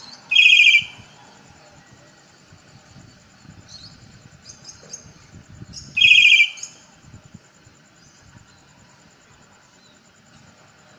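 A bird calling nearby: two loud, short trilled calls about six seconds apart, with a few softer chirps between them.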